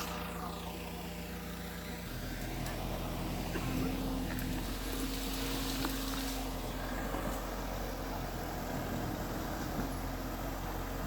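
Diesel engine of heavy earthmoving machinery running steadily, its engine note changing abruptly about two seconds in.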